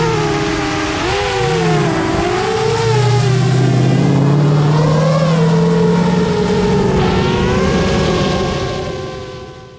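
Drift car's engine revving up and down through a slide, over a haze of tyre noise; the sound fades out near the end.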